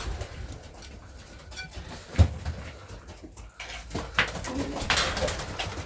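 Pigeons cooing and moving about inside a loft, with a sharp knock about two seconds in.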